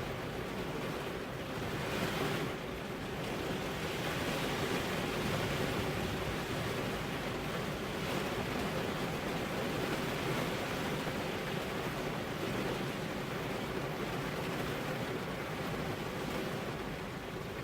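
Steady rain falling on a car's windows: a dense, even patter that swells briefly about two seconds in.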